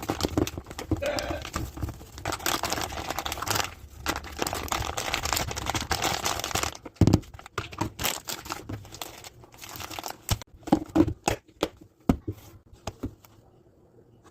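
Crinkling and rustling of packaging being handled and crumpled for about seven seconds, followed by a run of scattered light knocks and clicks as items are set down.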